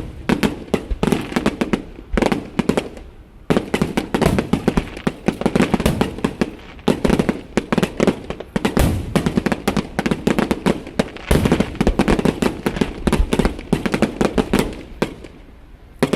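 Aerial fireworks display: a dense, rapid run of shell bursts and crackling bangs, with a brief lull about three seconds in before the barrage resumes.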